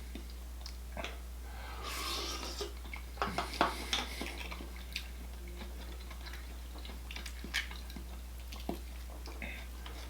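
Close-miked eating of mussels in garlic butter sauce: wet chewing and slurping, with scattered light clicks and clatter of shells and dishes, busiest a couple of seconds in. A steady low hum underneath.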